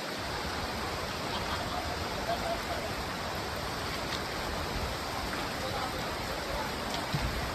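Steady rush of a waterfall, an even noise with no breaks.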